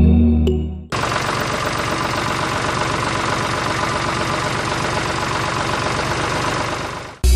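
Homemade mini tractor's motor running steadily with a fast, even rattle. It starts abruptly about a second in and cuts off just before the end.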